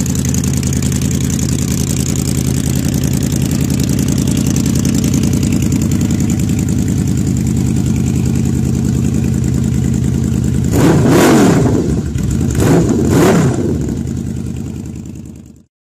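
Yamaha VMax 1700's V4 engine, fitted with Voodoo aftermarket exhausts, idling steadily. It is blipped up twice, about eleven and thirteen seconds in, each rev rising and falling quickly. Then it fades out near the end.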